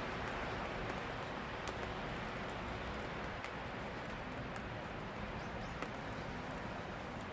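Steady rain falling: an even hiss with scattered sharp ticks of single drops landing close by.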